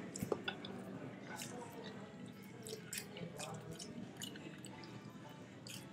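Close-up chewing: a person eating with wet mouth clicks and smacks scattered irregularly.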